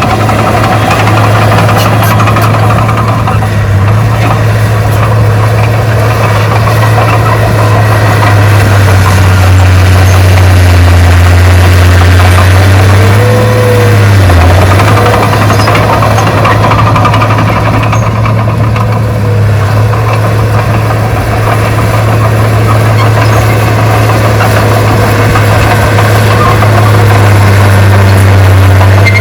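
Heavy earthmoving machinery's diesel engine running steadily with a loud, low drone. About halfway through, a short whine sounds and the engine note dips briefly, then settles back.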